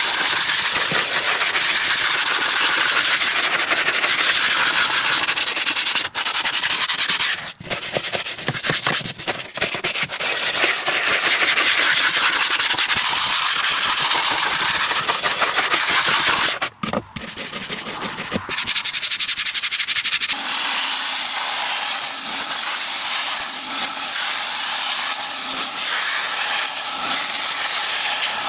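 Detailing cleaning equipment hissing loudly and steadily, cutting out briefly a few times. From about two-thirds of the way in it changes to a smoother, even hiss.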